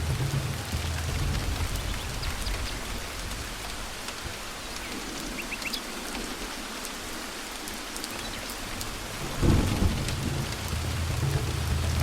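Steady rain with rolling thunder. The low rumble dies away mid-way, a sharper crack of thunder comes about nine and a half seconds in, and the rumble builds again near the end.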